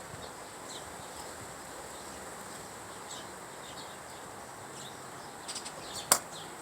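Small backyard birds chirping now and then, short high notes over a steady background hiss, with a single sharp click near the end.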